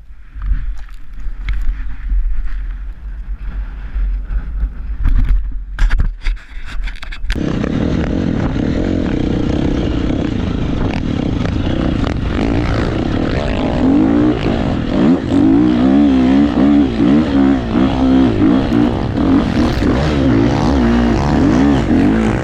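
A low rumble with scattered knocks, then after about seven seconds a dirt bike engine running loud and revving up and down. The bike is running louder than normal from a problem that can be fixed with zip ties.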